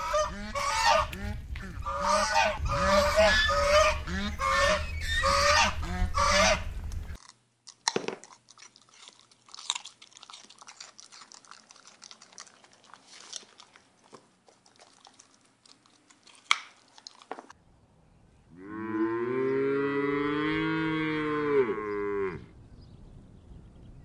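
Domestic goose honking over and over for about the first seven seconds. Then faint clicks and licking sounds from a coati eating a broken raw egg. About eighteen seconds in comes one long, wavering cow moo lasting about four seconds.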